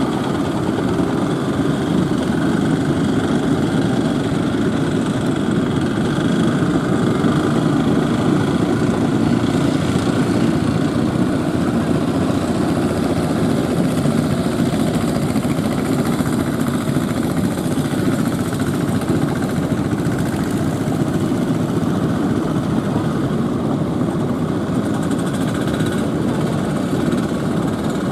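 Fishing boat engines running steadily, a continuous mechanical drone.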